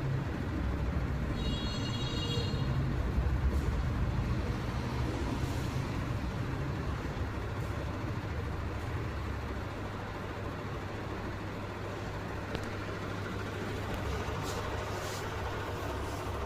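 Steady low rumble of passing road vehicles, with a brief high-pitched squeal about a second and a half in.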